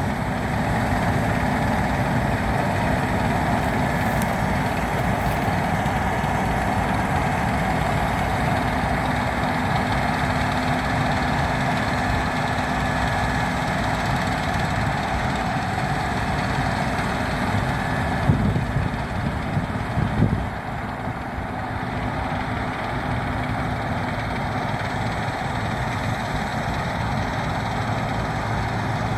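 Case IH 7150 combine harvester running steadily, a constant machine drone with a faint steady whine on top. Two short knocks come about 18 and 20 seconds in, after which the drone is a little quieter.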